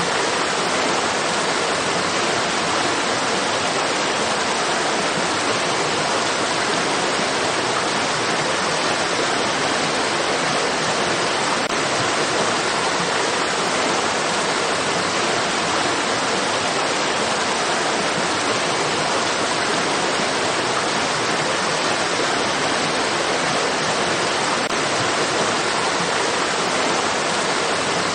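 Stream water rushing steadily, an even, unbroken hiss of flowing water.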